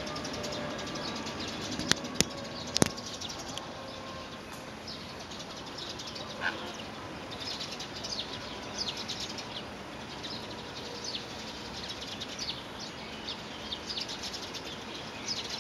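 Birds chirping, with many short, high, falling chirps repeating over a steady outdoor background hum. Three sharp clicks come about two to three seconds in, before the chirping starts.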